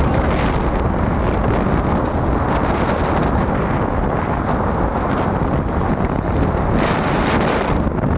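Wind buffeting the microphone on a moving motorcycle: a loud, steady rushing noise.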